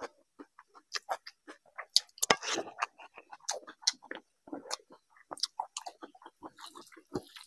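Close-miked chewing of a mouthful of rice and curry, with wet lip smacks and many short irregular clicks. There are squelches as the fingers mix and scoop the rice, and a louder run of mouth noise about two seconds in.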